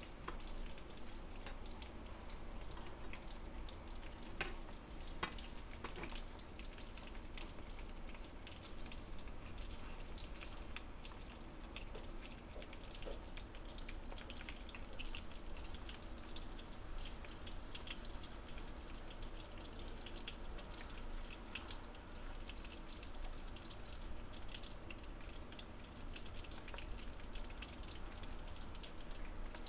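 Sausage pieces and fish balls sizzling and crackling steadily in hot oil in a nonstick frying pan, with a few sharper clicks as a spatula knocks the pan about four to six seconds in.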